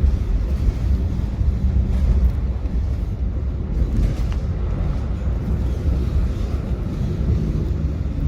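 Tram running along its line: a steady low rumble of wheels on the rails and running gear.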